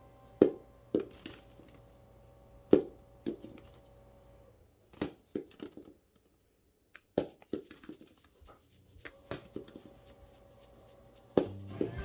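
Small rubber bouncy balls bouncing and knocking, about a dozen sharp, irregular impacts. Music starts near the end.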